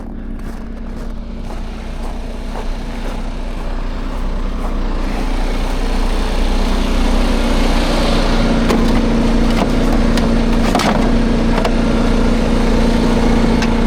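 Heavy truck's diesel engine running, growing louder about halfway through and then holding a steady drone, with a few short knocks over it.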